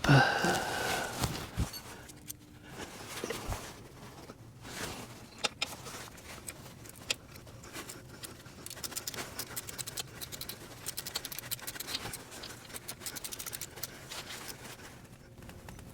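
A hand tool on a 6 mm fastener being tightened: scattered small metallic clicks and scrapes, then a run of fast, even clicks for several seconds past the middle.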